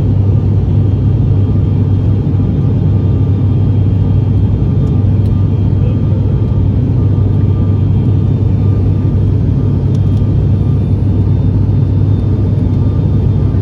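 Steady, loud low drone of an ATR 72 turboprop's engines and propellers, heard inside the passenger cabin.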